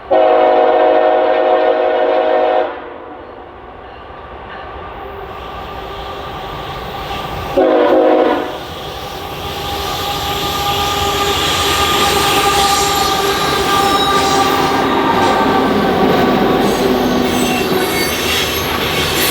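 Diesel locomotive air horn sounding one long blast of about two and a half seconds, then a short blast about eight seconds in. The train then rolls past, growing louder, with steel wheels squealing and clicking over the rail joints.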